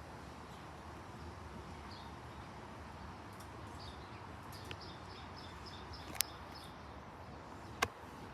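Steady wind noise with a small bird chirping repeatedly in the background, the chirps coming in a quick run about halfway through. Two sharp clicks stand out near the end.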